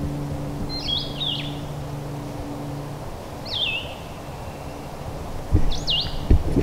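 A songbird calls three times, each a short high whistle that sweeps up and then slides down, a couple of seconds apart, over a low steady hum that fades out about halfway. Near the end come a few dull thumps, the loudest sounds here.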